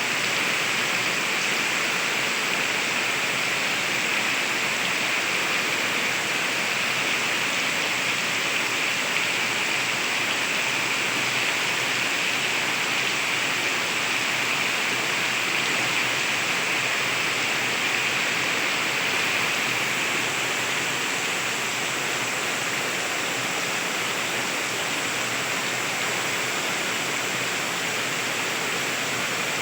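Heavy rain falling steadily: an even, unbroken hiss with no thunderclaps.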